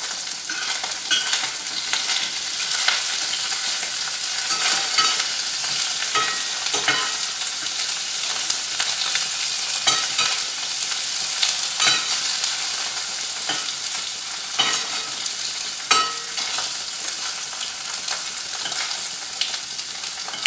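Paneer cubes sizzling in hot oil while metal tongs turn them over, with scattered clicks and scrapes of the tongs against the pot.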